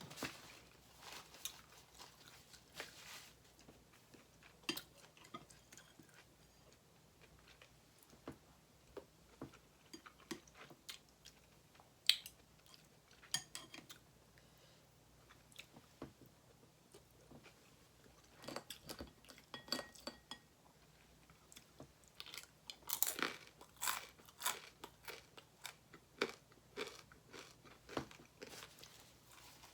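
A person eating up close: crisp crunching and chewing in irregular clusters of sharp clicks, with short pauses between bites.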